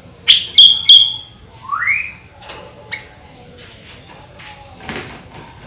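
Sooty-headed bulbul (kutilang) singing. It gives three loud, sharp whistled notes within the first second, then a rising whistled note, a short note about three seconds in, and fainter notes after.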